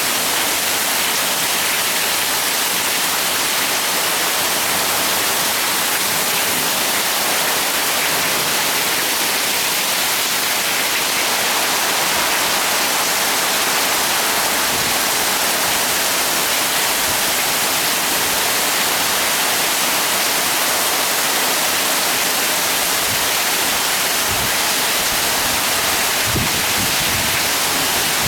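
Heavy rain falling as a steady, dense hiss, with a few low rumbles near the end.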